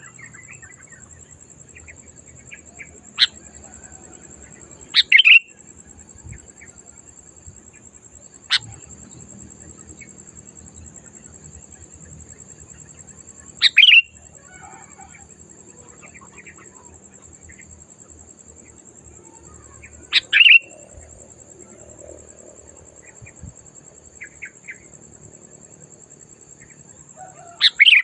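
Sooty-headed bulbul (kutilang) giving loud, short calls every few seconds, with quieter chirps between them. A steady, thin, high-pitched whine runs underneath.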